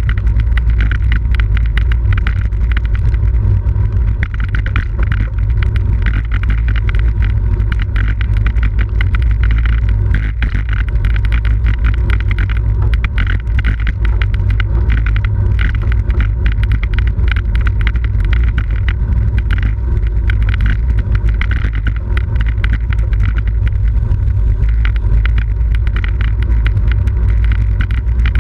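Steady wind buffeting on the microphone, a loud low rumble, mixed with tyre and road noise from a bicycle riding at race speed.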